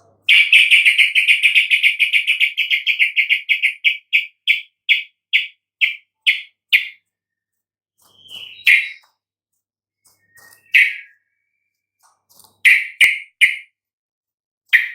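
Yellow-vented bulbul (trucukan) calling: a rapid chattering trill that slows into separate, evenly spaced notes over several seconds, followed by a few scattered single calls.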